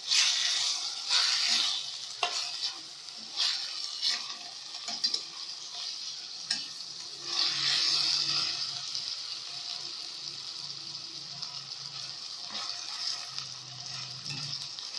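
Pre-boiled meat frying in butter with grated onion, sizzling steadily, with several stirring strokes in the first seven seconds or so before the sizzle carries on evenly.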